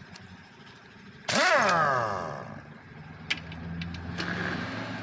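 An engine revs sharply about a second in, its pitch rising and then falling away, and settles into a steady idle; a sharp click comes near the middle.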